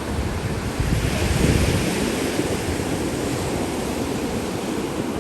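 Surf washing on a beach with wind buffeting the microphone, a steady rushing that swells louder about a second in.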